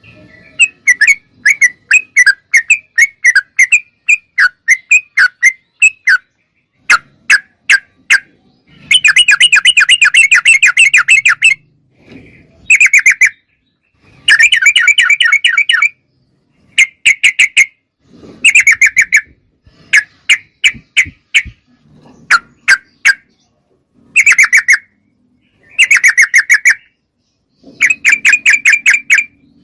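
Yellow-vented bulbul (trucukan) calling: runs of rapid, sharp chattering notes, each run lasting a second or two, with short pauses and a few single chips between them.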